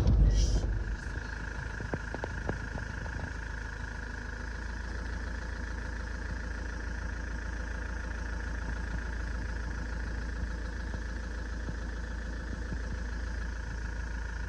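Steady low road rumble of a vehicle driving, with a steady high-pitched buzz running above it and a few faint clicks about two seconds in.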